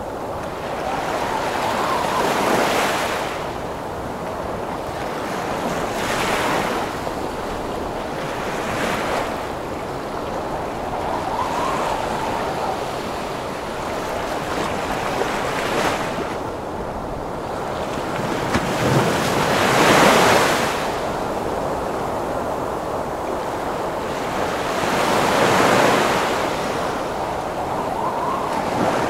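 Heavy ocean waves breaking over steady storm wind, each wave swelling and washing out every few seconds; the biggest crash comes about two-thirds of the way through.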